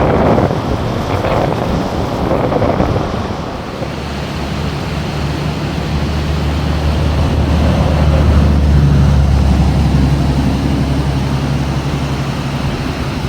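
Car driving: a steady engine drone and road noise with wind buffeting, the low drone growing stronger midway and easing near the end.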